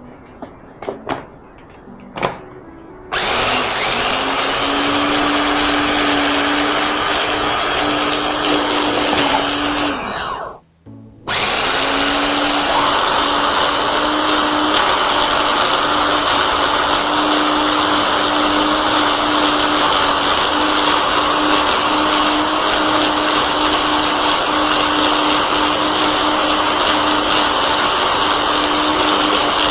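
Electric blender grinding basil pesto (basil, garlic, nuts and olive oil): a few clicks, then the motor starts about three seconds in and runs steadily with a constant hum. It cuts out for about a second near the middle, then starts again and keeps running.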